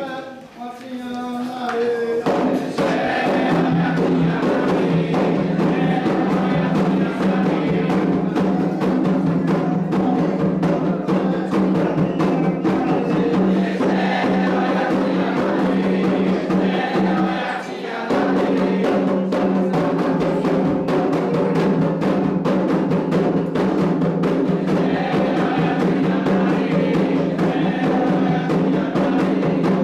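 Candomblé ritual song: a lead voice sings alone, then about two seconds in a group of voices joins over atabaque hand drums and a struck bell in a fast, even rhythm. The music breaks off briefly about two-thirds through and comes straight back.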